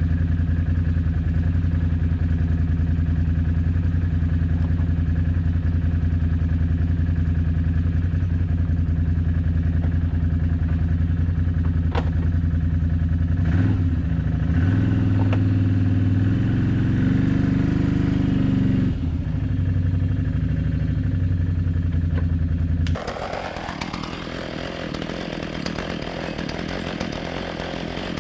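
Chainsaw in a chainsaw mill running steadily while ripping a board from a cedar log, its engine note wavering for several seconds midway as the load changes. About two-thirds of the way through it switches abruptly to a quieter, rougher, higher cutting sound.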